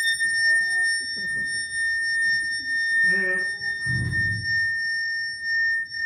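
Metal rod made to sing in longitudinal vibration by stroking it with rosin for friction: a steady, high-pitched ringing tone with overtones, held throughout. A low thump about four seconds in.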